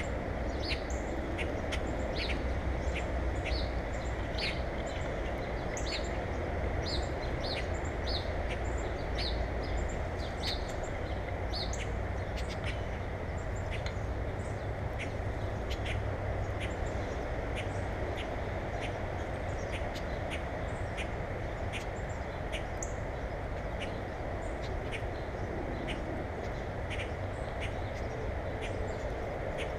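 Birds calling: many short, high calls come in quick succession, most thickly in the first half, over a steady background of outdoor noise.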